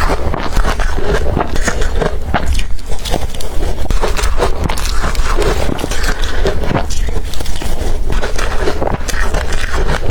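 Crushed blender ice being bitten and chewed right at the microphone: dense, irregular crunching and crackling, over a steady low rumble.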